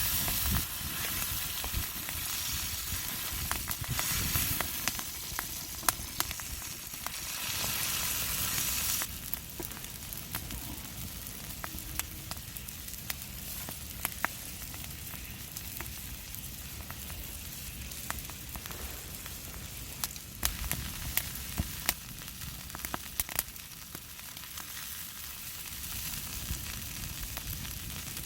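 Oysters sizzling in garlic butter in a pan, with scattered sharp pops and crackles; the sizzle turns quieter about nine seconds in.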